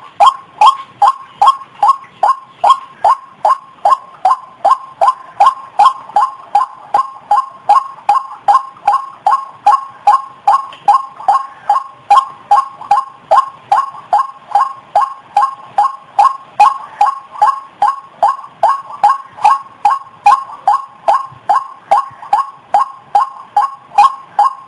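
White-breasted waterhen (ruak-ruak) calls from a bird-lure recording: a short call repeated at an even pace, about three a second, without a break.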